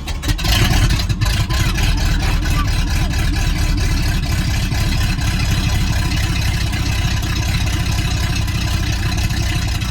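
Ford 351 Windsor V8 with its exhaust open at the collectors, just fired up from cold and running at idle, loud with rapid exhaust pulses. It builds over the first second, then holds steady.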